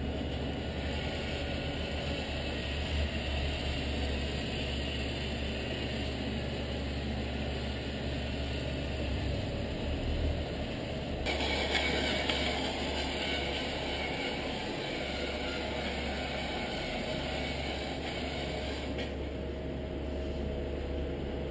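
1/14 scale remote-control Scania R620 timber truck running, a steady low drone with mechanical whirring. About halfway through a higher whir sets in and lasts for several seconds before dropping back.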